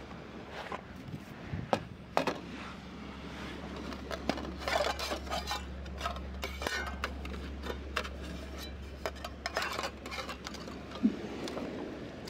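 Camp cookware and utensils being handled: a run of separate clinks and clatters of metal and glass.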